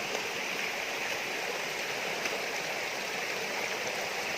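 Steady rush of flowing water from a stream at a waterfall.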